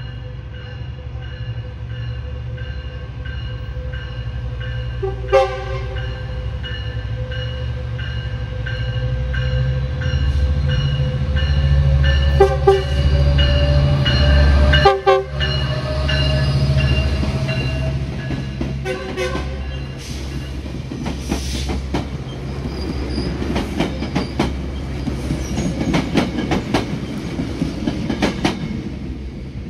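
Metrolink commuter train led by a Siemens Charger diesel locomotive passing close by. The engine's deep rumble swells as the locomotive goes past, its bell rings steadily, and there are several short horn toots. In the second half, wheels clatter over rail joints as the coaches roll by.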